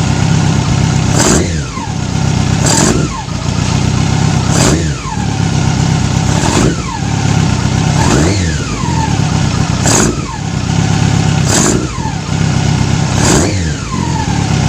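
Carbureted Yamaha R6 inline-four engine being blipped about eight times. Each rev rises quickly, then the pitch falls back slowly toward idle, showing a delayed, erratic throttle response that the mechanic suspects comes from carburettors out of sync.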